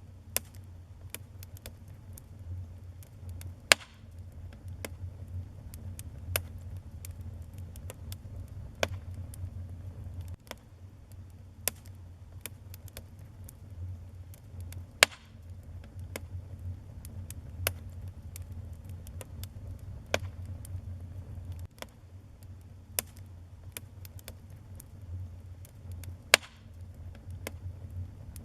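Wood fire burning in a fireplace: irregular sharp crackles and pops, with a few louder snaps about 4, 15 and 26 seconds in, over a steady low rumble of the flames.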